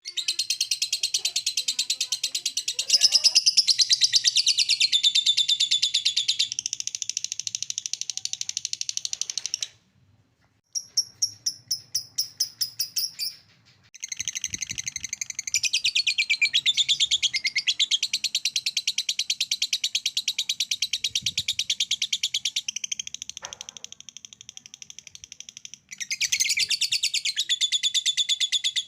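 Lovebird 'ngekek' song: a long, rapid, high-pitched chattering trill of many notes a second, going on and on. It breaks off briefly around ten seconds, where a short separate run of calls comes in, then pauses again near fourteen seconds before resuming.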